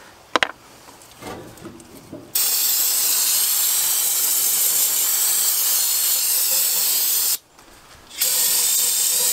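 Aerosol carb and choke cleaner sprayed onto a dirty carburetor: one long hissing burst of about five seconds, then, after a brief pause, a second burst.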